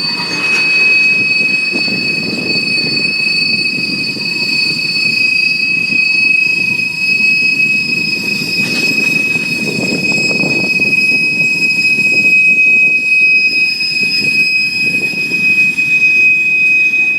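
Freight train cars rolling past with a steady, high-pitched wheel squeal over the rumble and clatter of the wheels on the rails. The rumble swells about ten seconds in.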